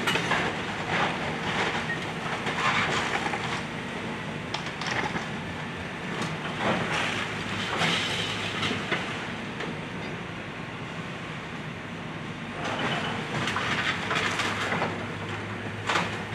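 Excavator demolishing a house: its diesel engine running steadily under irregular crunching and cracking of breaking wood and debris.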